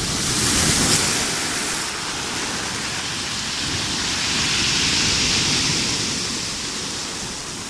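Rough sea: waves breaking and washing ashore in a steady hiss, swelling about a second in and again around five seconds in.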